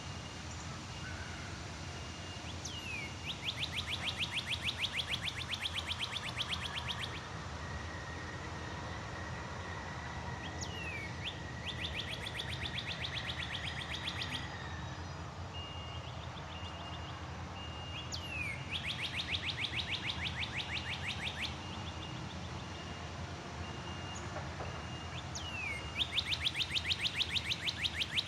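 A songbird repeating the same song four times, about every seven or eight seconds. Each song is a quick downward-slurred note followed by a fast, even trill lasting about three seconds.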